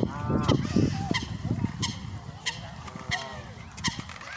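A goose honking: an arching call right at the start and a weaker one about three seconds in, with scattered sharp clicks.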